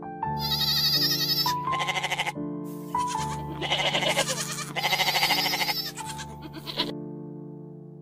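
Goats bleating, about half a dozen calls one after another, each with a quavering, wavering tone, over steady background music.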